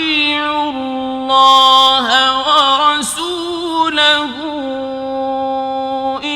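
A man's voice reciting the Quran in a slow, melodic tajweed style, holding long steady notes with ornamented turns of pitch about two, three and four seconds in, on the words 'wa rasūlahu'.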